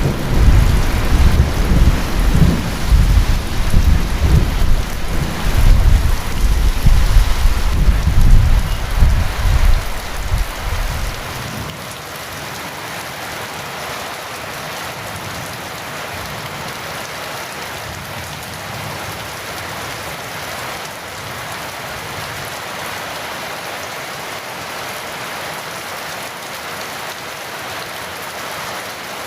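Heavy rain falling steadily, with a long rolling thunder rumble that cuts off abruptly about a third of the way in, leaving only the steady rain.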